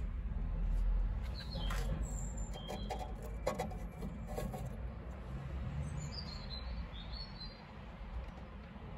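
Birds chirping in short calls, with a few light metal clicks as a spark plug on its lead is handled against the engine's cylinder head.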